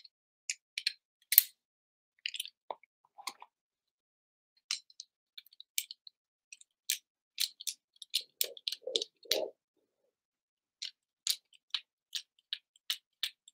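Toy cap gun clicking and snapping again and again at an uneven pace as its trigger and hammer are worked, with one louder snap about a second and a half in. A few duller knocks come between about eight and nine and a half seconds in.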